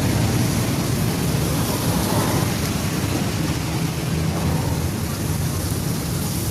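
Heavy rain pouring down steadily, with a continuous low rumble underneath.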